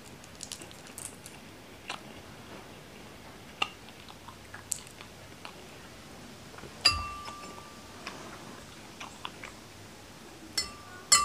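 Small sharp clicks of a boiled balot duck egg's shell being picked off by fingers, with a metal spoon clinking against a dish about seven seconds in, ringing briefly, and clinking again near the end.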